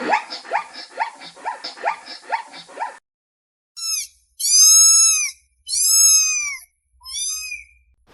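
Animal calls: a quick run of short, pitched yelps, about three a second, then after a short pause four long, arching, high-pitched calls.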